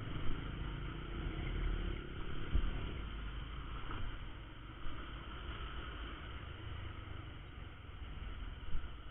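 Honda Verza 150's single-cylinder engine running under way, with a steady low rumble and a hiss of road and wind noise and a few short knocks.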